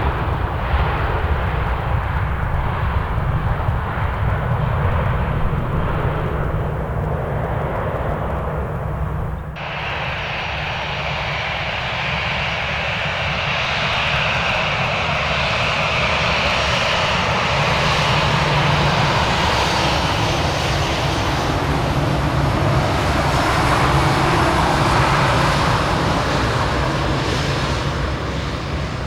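Airliner jet engines: a deep, steady rumble for about the first third, then an abrupt change to a sound with a high whine over the engine noise, swelling about two-thirds in and easing near the end.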